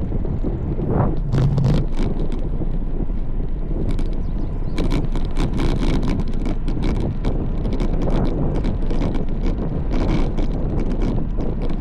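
Wind buffeting the microphone while riding a road bike, a steady low rumble, with a run of sharp clicks and rattles from about five seconds in.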